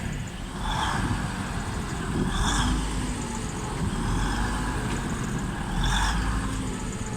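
Class 185 diesel multiple unit pulling into the platform: a steady low rumble from the train, with three short hissing bursts, about one, two and a half and six seconds in.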